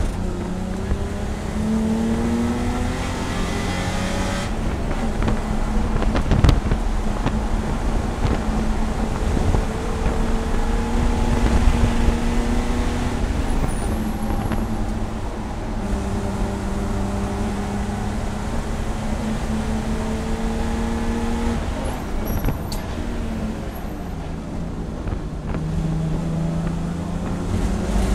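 A BMW E30 race car's engine heard from inside the cockpit, pulling up through the revs in repeated climbs of a few seconds each, broken by gear changes and lifts for the corners. There is a single knock about six and a half seconds in.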